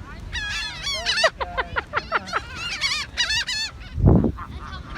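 A flock of birds squawking and calling over one another as they crowd in to be fed, with a run of quick repeated notes in the middle. A brief low rumble about four seconds in is the loudest sound.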